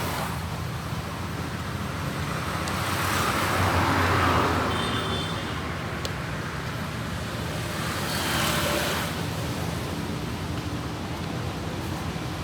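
Road traffic going past: a steady wash of engine and tyre noise, with vehicles swelling up as they pass about four seconds in and again near nine seconds.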